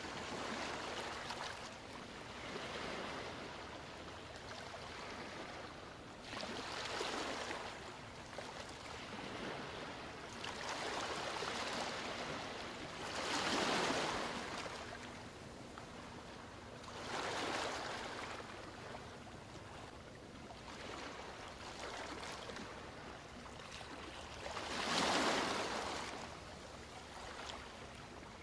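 Ocean waves breaking and washing up a beach, surging and fading every few seconds. The loudest surges come about halfway through and near the end.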